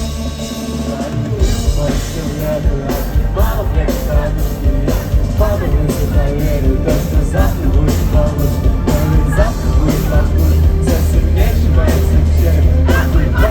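A rock band playing live with a singer's voice over it; heavy bass and drums come in about a second in, with drum hits about twice a second.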